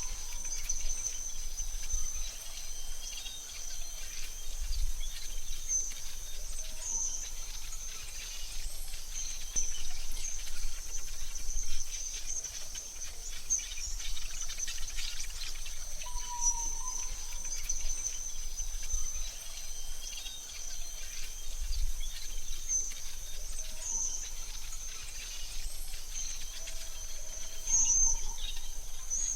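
AI-generated forest ambience: a steady high insect trill runs throughout, with a few short bird chirps now and then, over a faint low rumble.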